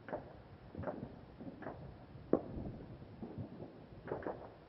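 Distant fireworks and firecrackers going off across the city in irregular, echoing bangs, about one a second. The loudest comes about halfway through, and three follow in quick succession near the end.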